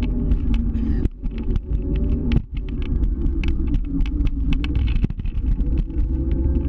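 Scooter riding along: its engine runs steadily under a heavy low rumble, with many short sharp clicks and rattles throughout.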